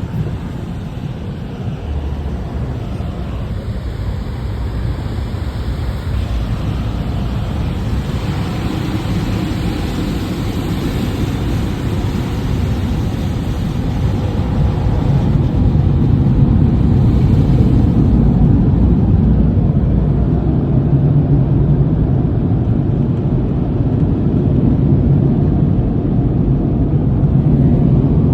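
Automatic car wash running: a steady, loud rumbling wash of noise that grows louder about halfway through, with a low hum joining in.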